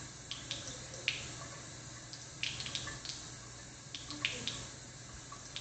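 Irregular small splashes and drips of water in a bathtub as a cat is washed, over a low steady hum.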